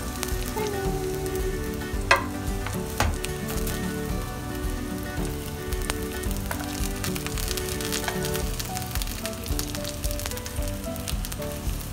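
Eggplant wedges sizzling as they fry in hot oil in a pan, with a few sharp clinks of a metal slotted spatula turning them, the loudest about two seconds in.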